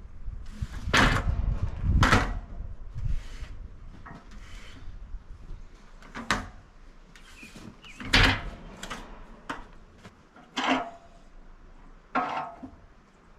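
Walnut slab and log being handled on a bandsaw mill: a series of wooden knocks, bumps and scrapes, about seven separate thumps, the loudest about a second, two seconds and eight seconds in.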